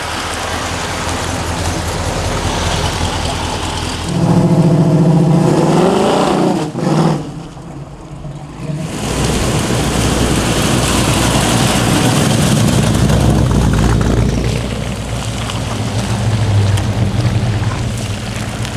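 American muscle car V8 engines running. About four seconds in, one revs up with a rising pitch and drops off sharply about three seconds later. A deep rumble then builds again and holds.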